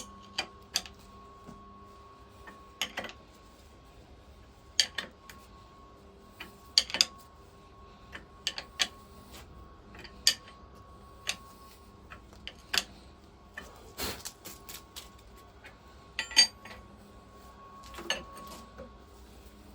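Spanners clinking on the cylinder head nuts as they are tightened down: irregular sharp metallic clicks and clinks, a second or two apart.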